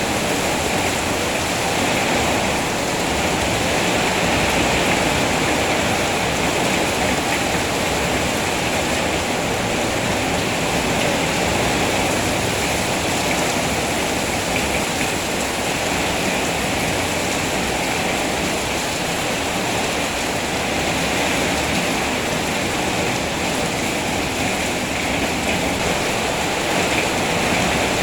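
Steady rainfall, an even rushing hiss with no breaks or separate sounds standing out.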